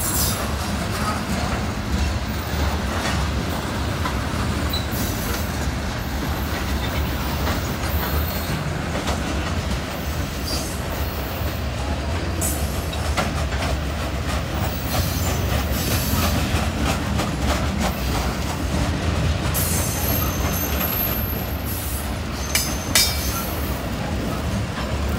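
Loaded covered hopper cars of a freight train rolling past at a steady pace: a continuous rumble of steel wheels on rail, with scattered clacks at the rail joints. Brief high wheel squeals come near the end.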